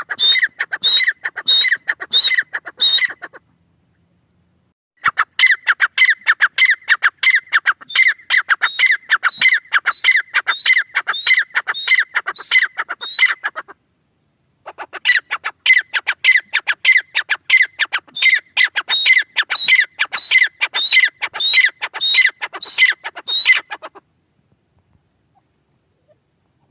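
Francolin (teetar) calling in a rapid run of short repeated notes, two or three a second. The calls come in three long bouts with brief pauses between, and stop a few seconds before the end.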